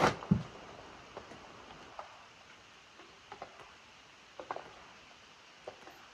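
Water dripping in slow, irregular ticks, some in quick pairs, over a faint steady hiss of rain. A soft low thump comes just after the start.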